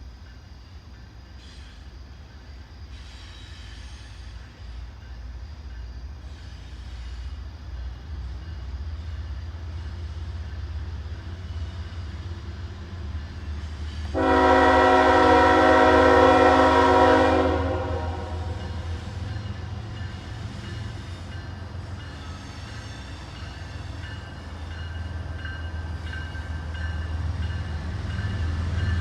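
Diesel locomotives of a CSX freight train approaching, their low rumble growing steadily louder. About fourteen seconds in the locomotive air horn sounds one long chord blast of about three seconds.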